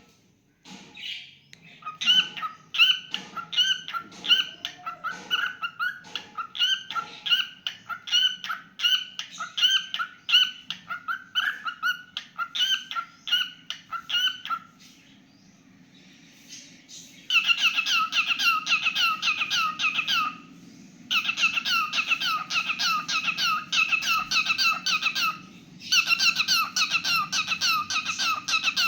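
Cockatiel singing: a long string of short, repeated whistled notes, about four a second. After a pause near the middle it comes back with faster, denser runs of notes in three bursts, over a faint steady low hum.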